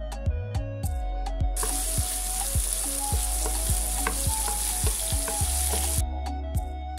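Food sizzling as it fries in hot oil in a pan, starting about a second and a half in and cutting off abruptly about a second before the end, over background music with a steady beat.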